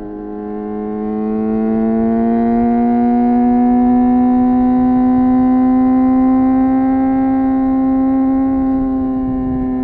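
Suzuki GSX-R 750's inline-four engine and exhaust under steady throttle, its pitch rising gradually over the first few seconds as the bike speeds up, then holding steady and easing off slightly near the end.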